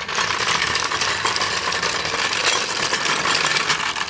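Impact wrench hammering on a wheel lug nut in one long steady run of rapid impacts, cutting off at the end.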